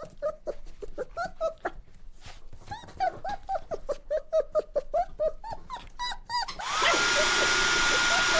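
A puppy giving a quick series of short, high whimpers and yips, several a second. Near the end this gives way abruptly to a steady whirring hiss with a high, steady whine from a small motor.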